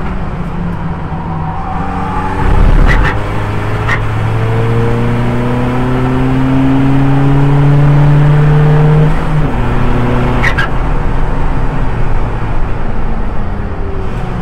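Audi TT race car's 2.0 TDI four-cylinder diesel engine pulling hard under acceleration, its note rising steadily for several seconds, then dropping at a gear change about nine seconds in. A loud low thump comes near three seconds in.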